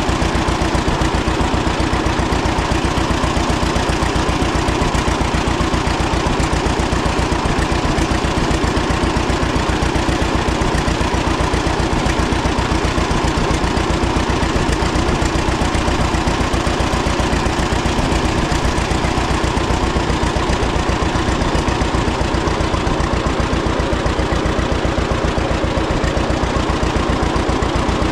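1936 John Deere Model A's two-cylinder engine running steadily after its cold start, with an even, unchanging beat.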